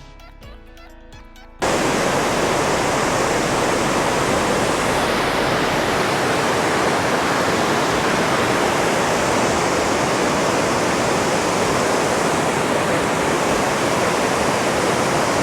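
Quiet background music with plucked notes, then an abrupt cut about a second and a half in to a waterfall's loud, steady rush of falling water.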